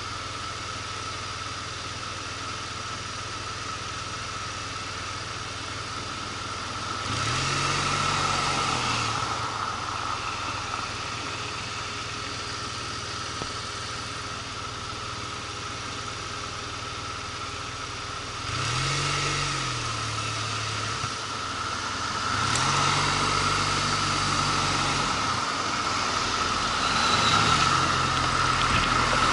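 Motorcycle engine running low and steady, then pulling away four times, each time rising in pitch and getting louder before easing off, with a steady high whine underneath.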